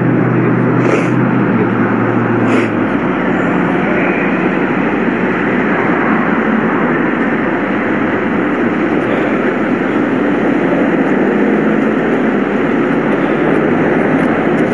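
Steady vehicle noise: an engine running with traffic sound, a low hum dropping away about three seconds in.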